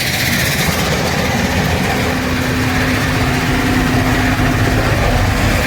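Old Mack Superliner dump truck's diesel engine running steadily, with a steady hum that comes in about a second and a half in and fades near the end.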